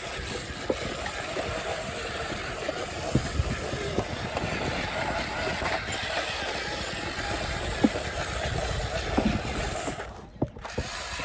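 Remote-control dump truck working: a steady mechanical hiss and whir with scattered light clicks and knocks, briefly dropping out about ten seconds in.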